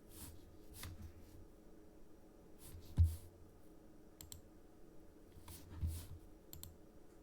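Scattered clicks from a computer mouse and keyboard at a desk, about eight in all, with one louder click and low knock about three seconds in.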